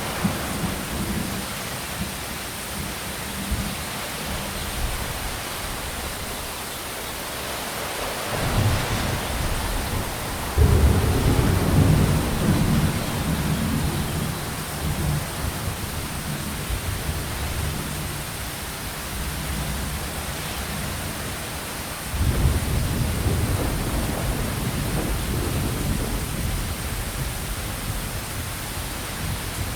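Steady rain hiss with deep rumbles of thunder, which swell up about eight seconds in, come in strongly at about ten seconds, and again about twenty-two seconds in.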